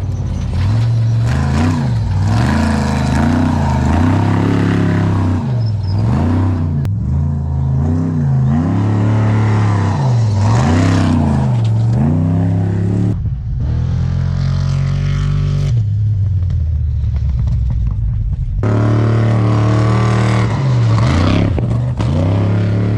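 Off-road trophy truck engines running hard at race speed, revving up and down over and over as the trucks cross rough desert terrain. The sound changes abruptly a couple of times as one truck follows another.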